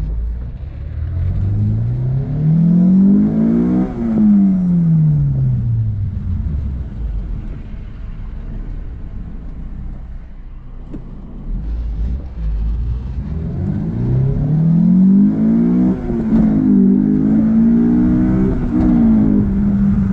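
Honda S2000's four-cylinder VTEC engine pulling hard twice. It revs up and drops back as the throttle lifts, then on the second pull climbs through a few quick gear changes. It is running cleanly at high rpm, its misfire from oil-soaked coil packs now fixed.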